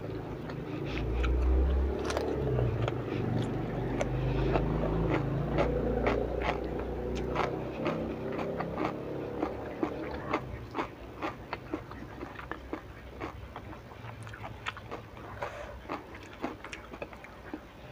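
A person chewing a mouthful of rice and sambal tempe close to the microphone, with many short wet mouth clicks and smacks, heavier in the first half and thinning out later.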